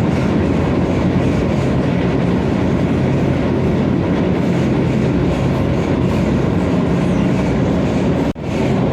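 Vande Bharat electric train running at speed: a steady rumble of wheels on the track, cutting out for a moment near the end.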